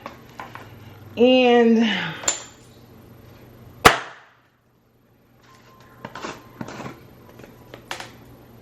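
Kitchen clatter at the stove: one sharp, loud knock about four seconds in, followed a couple of seconds later by a few lighter knocks and clicks.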